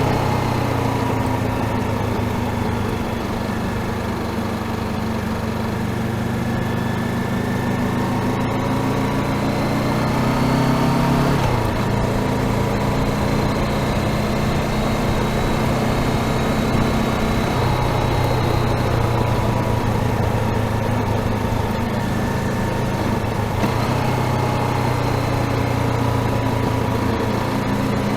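Honda CBR500R's parallel-twin engine running while riding. Its pitch climbs slowly for about eleven seconds, drops suddenly, then holds fairly steady.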